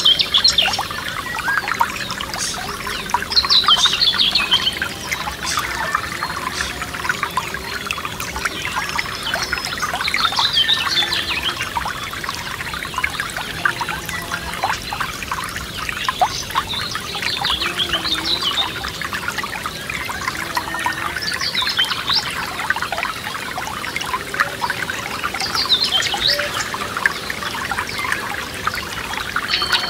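A small forest stream trickling and splashing steadily. A songbird repeats a short, high song phrase about every five or six seconds above it.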